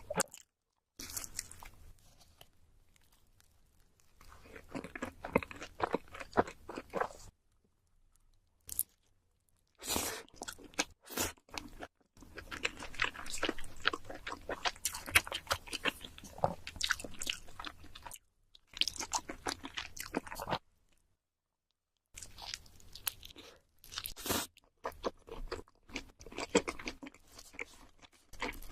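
Close-miked chewing and biting of cheese seafood pizza: crunchy, wet chewing in bursts of a few seconds, broken by short silent gaps.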